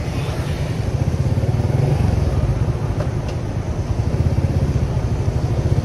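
Small motorcycle engine running while riding, a steady low drone with fast, even pulsing.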